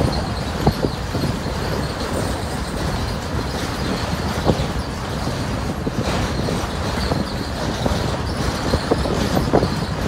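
Freight train of gondola cars rolling across a steel truss bridge: a steady rumble of wheels on rail with scattered irregular knocks and clanks.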